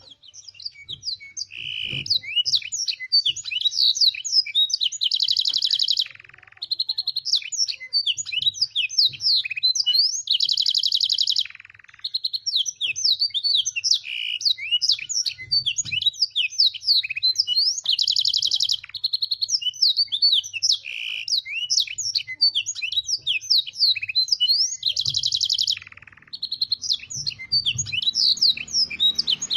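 Domestic canary singing a long, continuous song filled with learned blackthroat (yellow-rumped serin) phrases. It runs as rapid high chirps and slurred notes, broken every six or seven seconds by a held buzzy trill.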